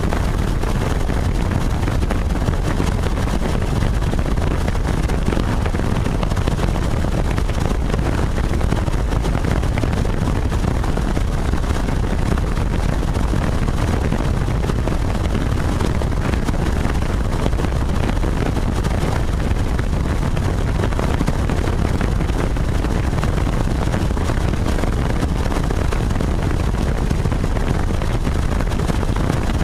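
Helicopter in flight: a steady, loud low rumble that does not change.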